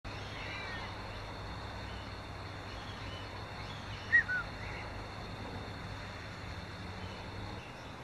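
Two short, clear bird call notes falling in pitch about four seconds in, with a few faint chirps near the start, over a steady low background rumble.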